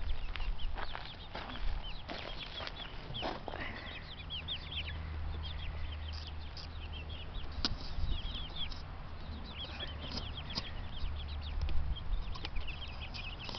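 Birds in a backyard bird yard calling, with many short high chirps throughout. Under them is a steady low rumble, with a few sharp knocks.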